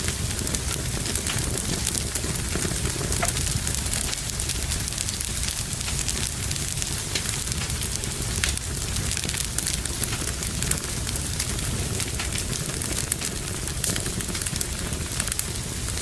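Fire burning in a fireplace, crackling steadily with many small sharp pops over a low rumble of the flames.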